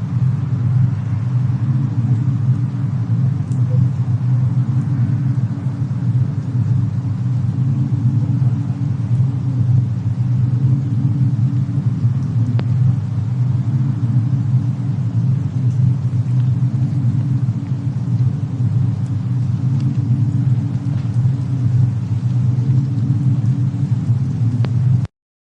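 Steady low rumble of a fireplace-and-snowstorm ambience track, with a few faint crackles on top. The sound cuts out abruptly near the end.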